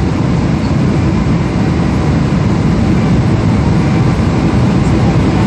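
Cabin noise inside a Boeing 777 jet airliner: a loud, steady, low rumble of the engines and airframe.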